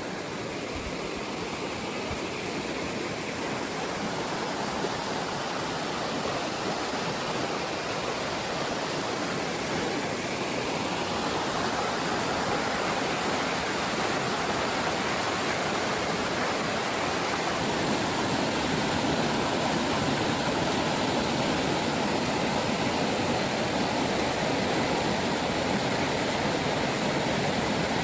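River water rushing in a steady, even noise that grows gradually a little louder.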